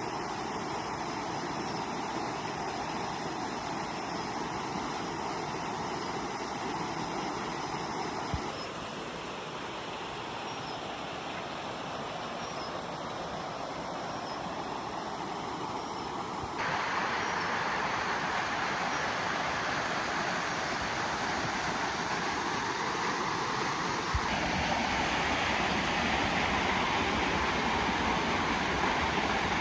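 Waterfall: a steady rush of falling water. The level shifts abruptly three times and is louder in the second half.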